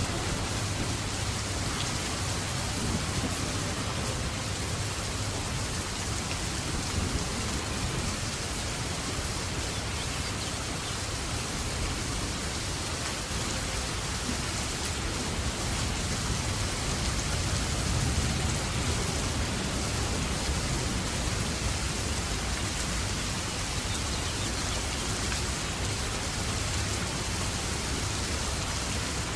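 Steady heavy rain falling, an even hiss of drops on surfaces with a low rumble underneath.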